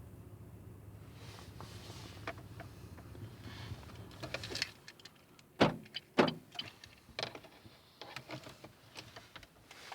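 A low steady hum, likely the Renault Mégane's engine running, stops about halfway through. It is followed by a run of clicks and rattles and two loud knocks a little over half a second apart, like a car's door, key and fittings being handled.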